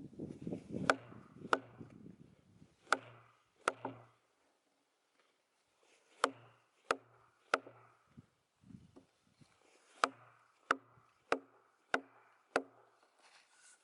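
Repeated sharp blows struck on an oak log being split along its crack line. There are about a dozen, in runs of two or three a little over half a second apart, with a pause of about two seconds between the first and second groups.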